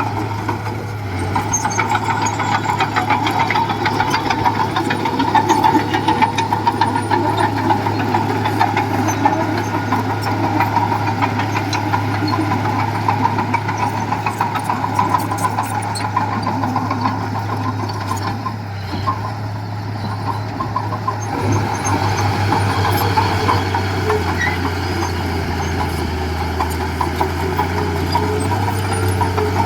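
Diesel engine of heavy construction machinery running steadily, with a continuous low drone and fine clatter. The engine note shifts slightly about two-thirds of the way through.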